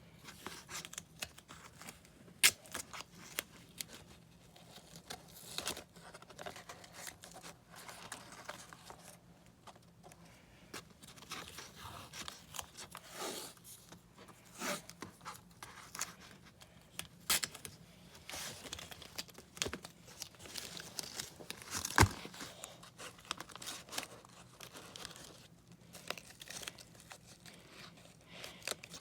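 Tape being pulled off the roll and torn while cardboard is handled, with scattered crinkles and scrapes. Two sharp knocks, one a couple of seconds in and a louder one about three-quarters of the way through.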